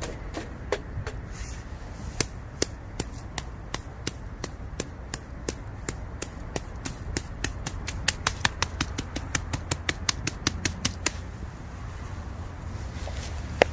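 Bamboo pieces burning in a campfire, crackling with many sharp pops. The pops come in a quick run of about five a second in the middle, then thin out.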